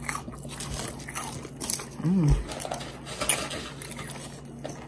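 Close-miked crunching and chewing of crispy double-fried hand-cut fries: a run of short, sharp crunches, with a brief hummed voice sound about two seconds in.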